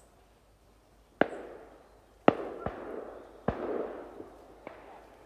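Shotgun shots: three loud reports roughly a second apart, each trailing off in echo, with a few fainter, more distant shots between them.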